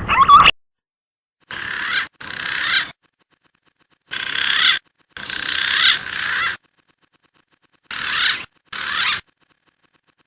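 Recorded green pigeon (punai) lure call: harsh, raspy chattering in three pairs of short bursts, each cut off sharply into dead silence.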